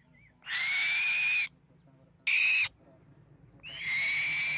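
A bird giving three harsh, hissy calls, each with a steady pitch inside it. The first and last last about a second and the middle one is shorter.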